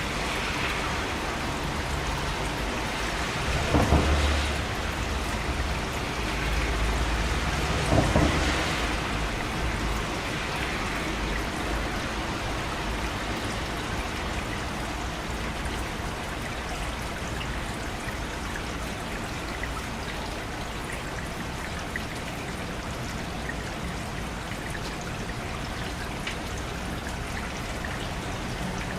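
Steady rain falling, with two claps of thunder about four and eight seconds in, each trailing off in a low rumble.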